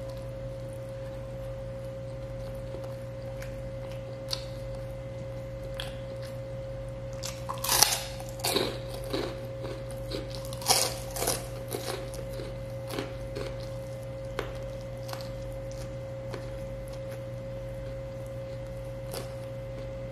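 A person chewing and biting grilled chicken and rice, close to the microphone: scattered crunchy bites and mouth clicks, densest and loudest from about a third of the way in to just past the middle, over a steady faint hum.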